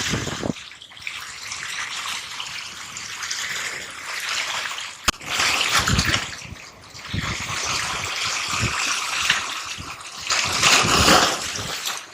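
Seawater washing and splashing on the shore, swelling twice in surges, with a single sharp click about five seconds in.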